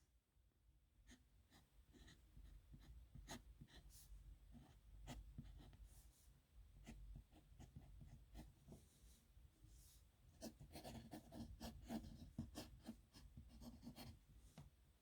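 Pen scratching on paper while a signature is written, a faint run of quick, irregular strokes, thickest near the end.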